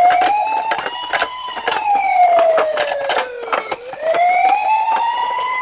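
Wailing siren rising and falling slowly in pitch, about one up-and-down sweep every three to four seconds, with frequent sharp clicks and knocks over it.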